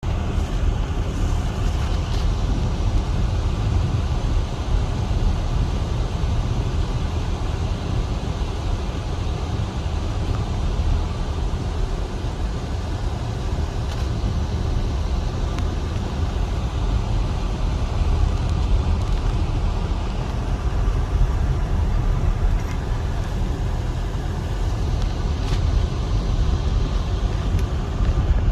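Car driving on a snowy road, heard from inside: a steady low rumble of engine and tyres, with a few faint clicks.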